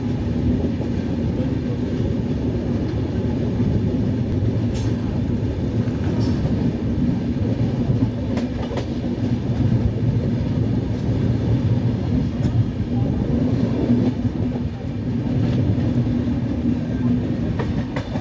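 Passenger train coach running along the rails, heard from its open doorway: a steady rumble of the wheels with a low hum and a few light clicks over the rail joints.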